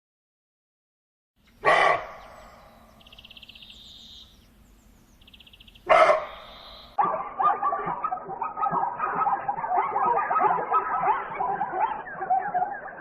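A dog barks twice, about four seconds apart. From about seven seconds in comes a dense, continuous stretch of many short, overlapping animal calls.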